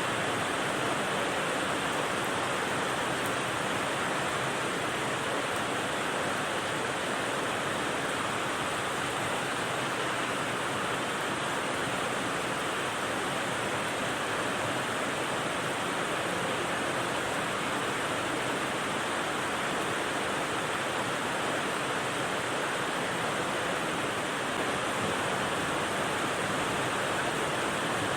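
Steady rain sound, an even unbroken hiss with no separate drops or changes.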